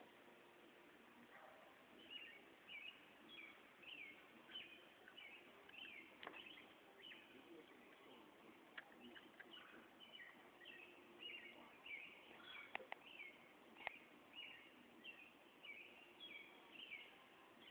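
Faint bird chirping: a steady run of short, repeated chirps, about two a second, with a few sharp clicks in between.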